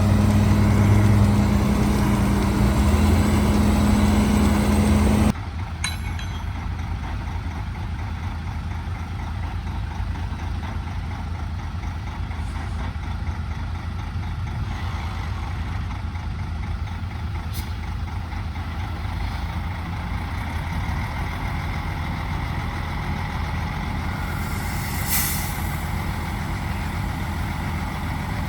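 Heavy diesel engines of construction machinery running: a loud, steady engine drone for the first five seconds, then an abrupt drop to a quieter, steady low rumble. A short hiss comes about 25 seconds in.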